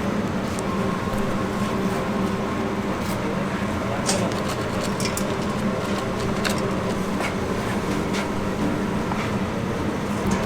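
Steady machine hum with scattered light clicks and clinks.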